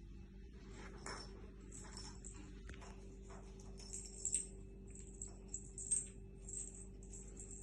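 A small bird chirping over and over in short, high-pitched calls, loudest around four and six seconds in, over a faint steady hum.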